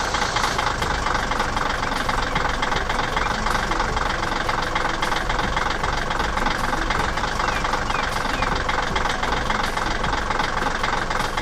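A construction vehicle's engine running steadily with a fast, even rattle. It starts suddenly and cuts off suddenly.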